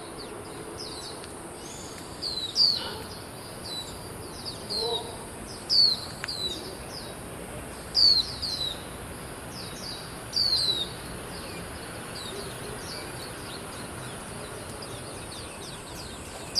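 A songbird singing in short clusters of quick, high, downward-slurred whistled notes, a burst every two to three seconds, over a steady high-pitched hiss.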